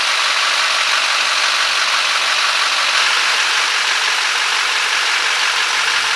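A 6.6-litre turbo diesel engine in a Chevrolet Kodiak C4500 truck idling steadily, heard as an even hiss at one level with no revving.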